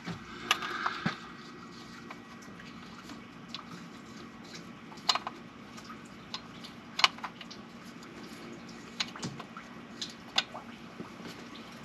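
Scattered small clicks and taps of hand work on a distributor: a new rotor being tried onto the distributor shaft and parts being handled, over a faint steady background.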